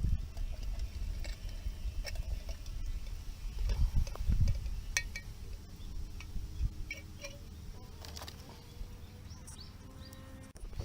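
Scattered sharp crackles and clicks from a campfire over a low rumble, the rumble easing off in the second half.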